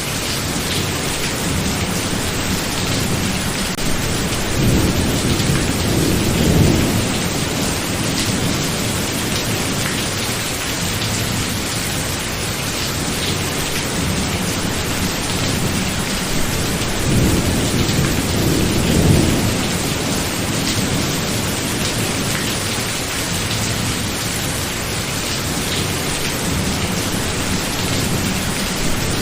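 Steady heavy rain with thunder rumbling low twice, a few seconds in and again past the middle.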